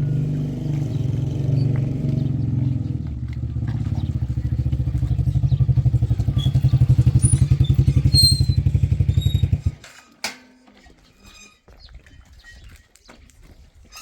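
An engine running with a steady, rapid beat, growing slightly louder, then switched off abruptly just under ten seconds in. A single knock follows.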